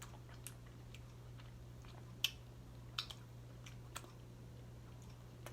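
Close-up eating sounds of a person chewing seafood pasta, with a few short, sharp clicks and smacks at irregular moments, the loudest about two seconds in.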